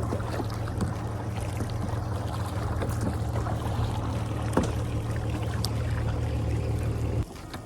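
Water splashing and lapping around a kayak with many small ticks, over a steady low hum. It cuts off suddenly near the end.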